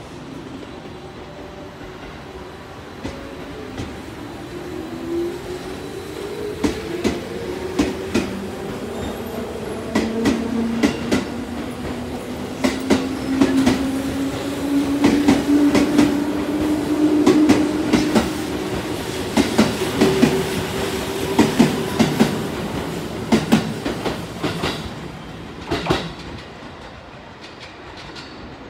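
JR Central 211 series electric commuter train pulling out and accelerating past: its motor hum rises in pitch as it gathers speed, and the wheels clack over rail joints car after car. The sound fades after the last car goes by, near the end.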